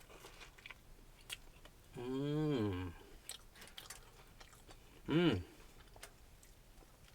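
A person chewing a mouthful of bannock soaked in gravy, with small wet mouth clicks. He hums twice in appreciation: a long 'mmm' about two seconds in and a shorter one near five seconds.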